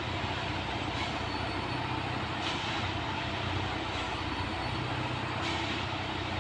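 Plasser & Theurer rail track maintenance machine running with a steady low diesel drone and mechanical noise, with a few short hisses about one, two and a half and five and a half seconds in.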